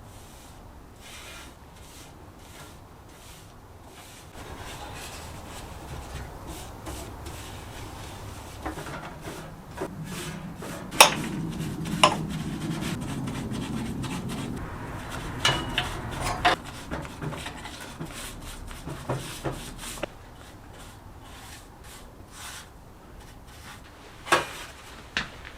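Rubbing and scraping from hand work on a part, heaviest in the middle, with a few sharp clicks: two close together near the middle, more a few seconds later and again near the end.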